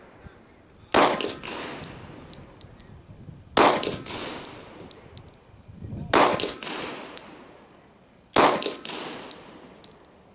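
Glock 22 Gen4 .40 S&W pistol fired four times in slow, evenly spaced shots about two and a half seconds apart, each with a short ringing tail. Light metallic pings in between, typical of spent brass casings landing.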